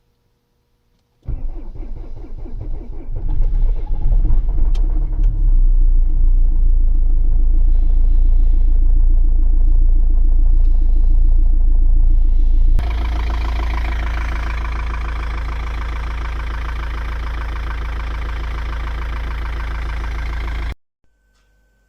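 Older Mercedes-Benz diesel engine cold-started in deep frost: it starts abruptly about a second in, builds unevenly for a couple of seconds, then runs steadily. About halfway through the sound switches suddenly to a brighter, clattery steady run, which cuts off shortly before the end.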